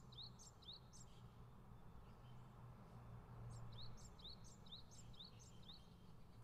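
Faint bird chirping in the background: short rising chirps repeated about twice a second, in one run at the start and another from about three seconds in, over a low steady hum.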